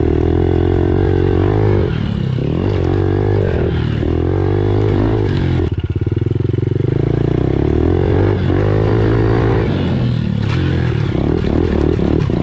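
Pit bike engine being ridden, its note climbing and falling back as the throttle opens and closes about every two seconds, with a sharp drop a little before halfway.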